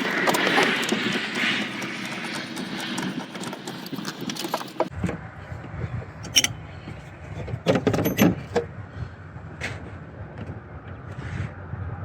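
Hand tools and loose metal parts clinking and rattling while the throttle body is being unbolted. The first few seconds are a busy clatter, followed by a few separate sharp metal clinks.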